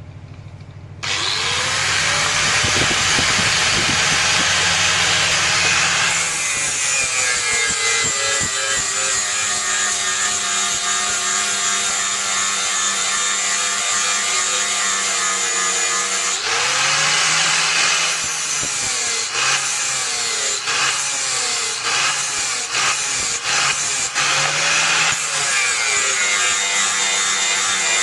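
Electric grinder working steel, starting about a second in; its motor whine drops and recovers several times as it is pressed into the metal and eased off.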